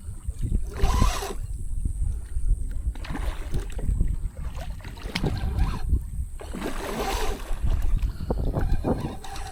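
Wind rumbling on the microphone over water noise on a kayak, with a few louder rushing swells, about a second in and again near seven seconds.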